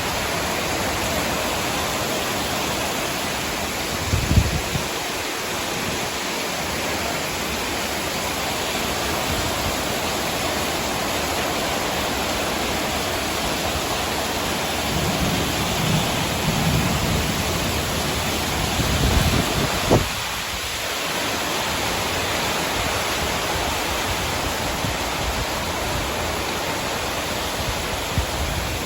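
Heavy rain falling steadily in a summer thunderstorm, a constant hiss. Low rumbles rise out of it about four seconds in and again from about fifteen to twenty seconds in.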